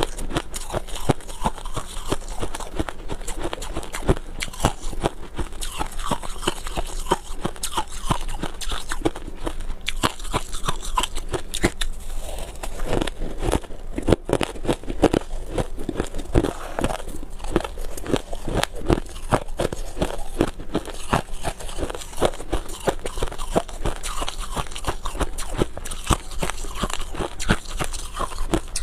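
Freezer frost being bitten and chewed: a dense, rapid run of crackly crunches.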